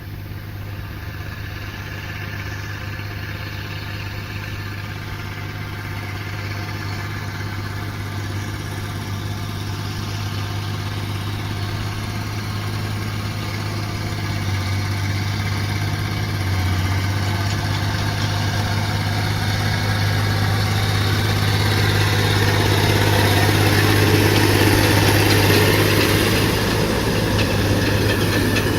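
Allis-Chalmers 190XT tractor engine running at a steady speed, getting steadily louder and loudest a few seconds before the end.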